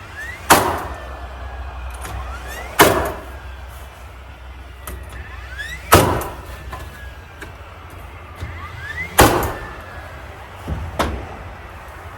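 Nail gun driving nails into wood siding: four loud sharp shots a few seconds apart, each preceded by a short rising whine, then two lighter shots close together near the end, over a low steady hum.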